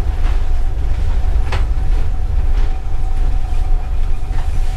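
Railway carriage rolling slowly, heard from inside: a steady low rumble from the wheels and running gear, with a few clicks as the wheels cross rail joints, the sharpest about a second and a half in.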